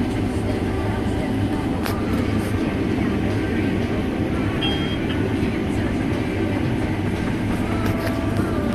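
Combine harvester running steadily, a constant engine drone with a low hum.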